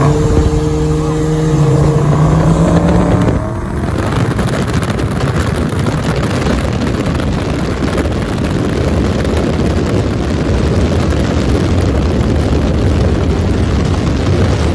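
Dodge Scat Pack's 392 HEMI V8 droning steadily at cruise, then revving up as it goes to full throttle about three seconds in, with a short dip near the shift. After that comes a loud steady roar of engine and wind noise as the car accelerates hard.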